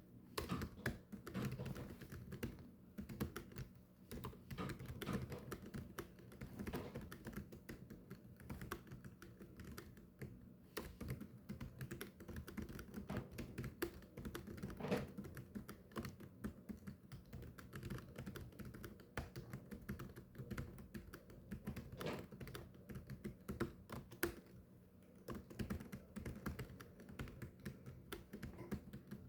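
Fast, continuous typing on a keyboard: a dense, irregular run of key clicks with short pauses now and then.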